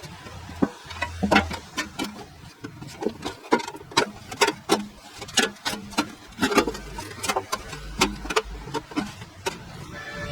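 A quick, irregular series of sharp clicks and taps, a few each second, some with a short ring after them.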